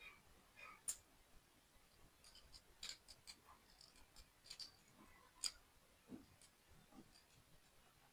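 Faint, scattered clicks and light scratching of small toy model parts being handled and fitted during assembly, with the sharpest clicks about a second in and about five and a half seconds in.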